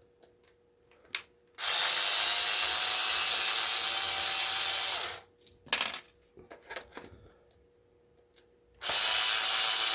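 Power drill running twice, about three and a half seconds each, backing screws out of an appliance casing, with small clicks and knocks of handling between the runs.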